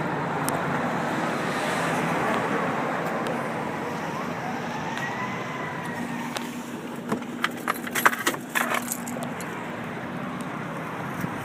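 Road traffic passing, with a vehicle engine's steady hum and a faint whine that rises and falls midway. A cluster of sharp clicks and rattles comes about seven to nine seconds in.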